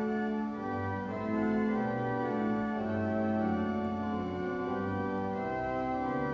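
Church organ playing the prelude: sustained, held chords over a bass line that moves from note to note.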